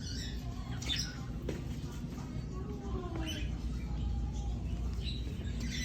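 Caged small birds chirping, a few short high calls spread through, over a steady low background hum.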